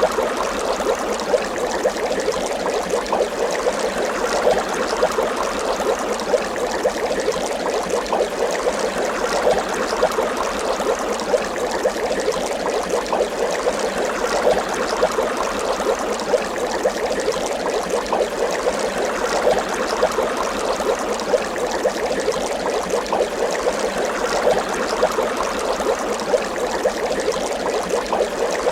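Water bubbling continuously: a dense, steady stream of small bubbles popping and gurgling.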